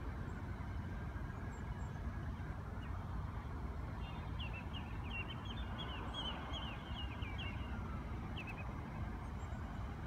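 Steady low background rumble. About four seconds in, a bird gives a rapid series of short, high calls, several a second, for about four seconds.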